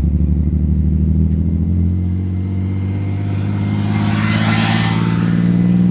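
Nissan 300ZX's naturally aspirated six-cylinder engine running while the car is driven, its note changing about two seconds in and rising slightly near the end, with a brief hiss around four seconds. The owner says it is running on five cylinders because one injector isn't firing.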